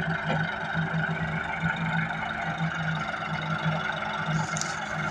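Tractor engine running steadily with an even, pulsing throb.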